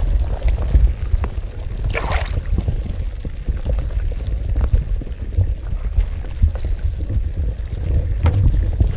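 Water in a carbonated hot-spring bath bubbling and sloshing, with many small plops and a brief louder gush of water about two seconds in.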